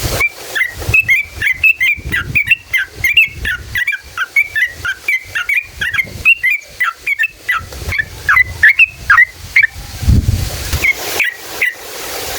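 Yellow-vented bulbul (trucukan) singing a long, rapid run of short bubbly notes, about three to four a second. The song breaks off about ten seconds in, then a few more notes follow near the end.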